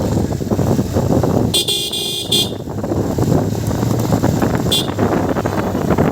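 Wind buffeting the microphone and a vehicle running during a motorcycle ride, with a high-pitched horn honking about a second and a half in for over half a second, a short toot just after, and another brief toot about three seconds later.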